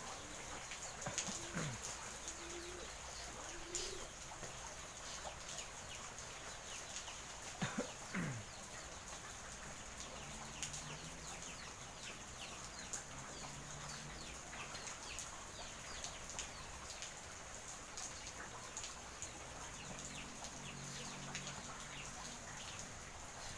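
Steady rain falling, with many small drips and patters. Faint low calls sound in the background around the middle and near the end.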